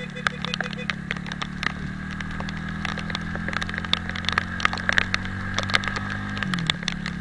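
Italika 250Z motorcycle engine running steadily under way, with a brief dip and recovery in engine pitch about six and a half seconds in. Many sharp clicks of raindrops hit the camera and microphone throughout.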